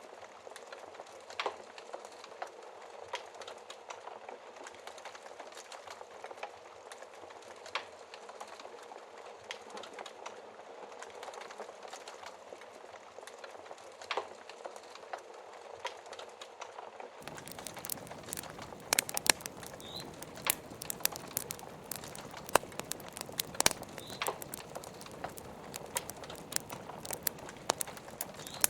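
Wood fire crackling with scattered pops over a steady hiss of rain. About 17 seconds in the sound shifts to fuller, with more frequent and louder pops.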